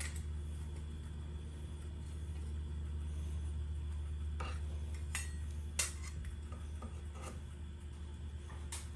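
A handful of short metallic clinks and taps, like metal parts or tools being handled, scattered over a steady low hum; the sharpest comes about six seconds in.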